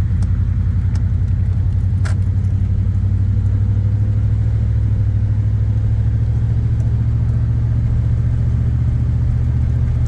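Truck's engine and road drone heard from inside the cab while driving, a steady low hum, with a light click about two seconds in. The truck is struggling to move, which the driver takes for a sign that the plenum is about to fail.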